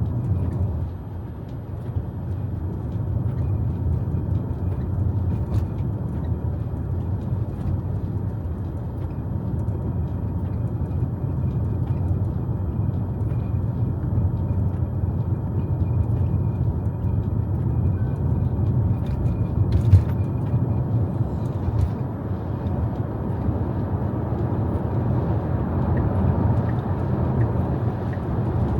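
Steady low road and tyre rumble inside a Tesla's cabin while driving on a rain-wet road, with a single sharp click about 20 seconds in.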